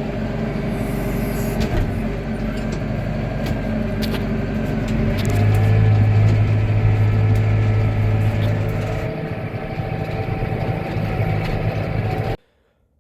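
An engine running steadily, louder for a few seconds in the middle, then cutting off suddenly near the end.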